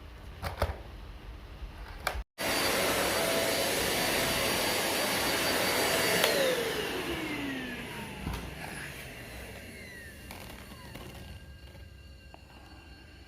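Deerma DX700 vacuum cleaner running with a steady high whine for about four seconds. It is then switched off, and the whine slides down in pitch as the motor spins down.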